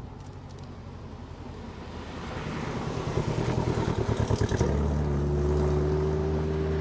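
Mid-engine Chevrolet Corvette C8 prototype's engine, growing louder as the car approaches on track. The note throbs for a moment, then settles into a steady, louder drone a little past halfway.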